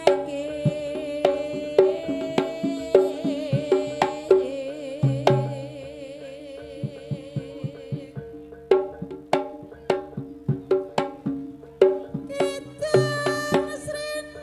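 Live Javanese folk ensemble music: brisk hand-drum strokes in an uneven rhythm over held ringing tones. A wavering, reedy melody runs over them and drops out about halfway through, and a new melodic line comes in near the end.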